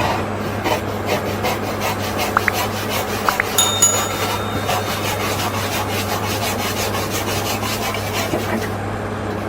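Repeated scraping or rasping strokes at an even pace over a steady low hum, with a few brief high squeaks about three seconds in.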